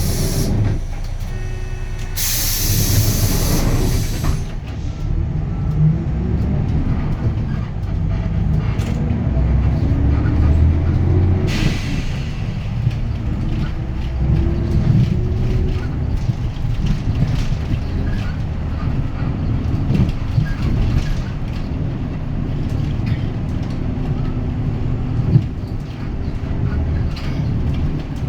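Cabin sound of a 2019 Hyundai Green City bus's D6GB six-cylinder diesel pulling away from a stop. Loud compressed-air hisses come in the first four seconds and a short one near twelve seconds, then the engine note rises and falls repeatedly as the manual gearbox is worked up through the gears.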